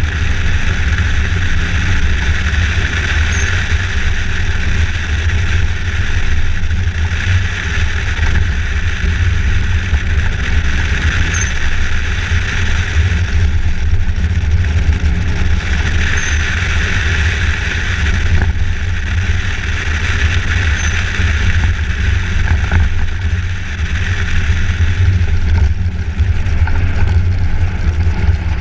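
A motor vehicle on the move: a steady low engine and road rumble, with a hiss that swells and fades every few seconds.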